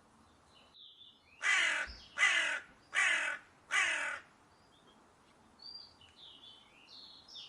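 Crow cawing: four loud, harsh caws in quick, even succession, each about half a second long.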